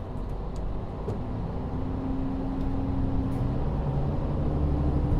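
Interior running sound of a KiHa 40 diesel railcar: its N-DMF13HZB diesel engine pulling under power, with the steady engine tones growing stronger and the overall sound rising gradually as the car gathers speed. A few faint clicks are heard in the first second or so.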